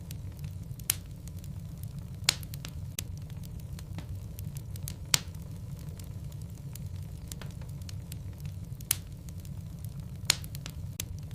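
Wood logs burning in a fireplace, crackling with a scatter of small ticks and a sharp pop every second or few, over a low steady rumble of the fire.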